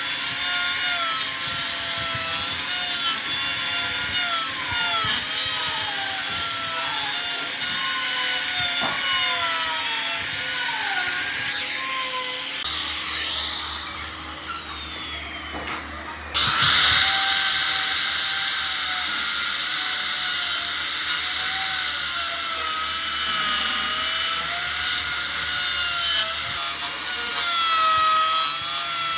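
Handheld power tool working wood, its motor whine dipping in pitch again and again as it bites into the workpiece. About halfway through the sound jumps suddenly louder and runs on with a wavering whine.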